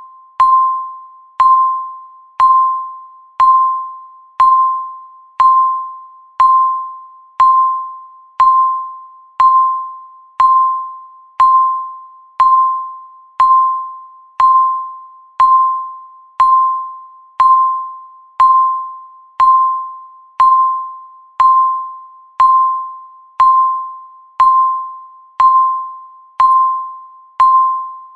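Countdown timer tick: one short ringing ding each second, starting with a click and dying away quickly, in a steady, even rhythm.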